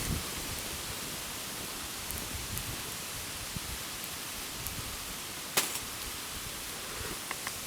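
Wood campfire burning with a steady hiss and scattered small crackles, and one sharper pop about five and a half seconds in.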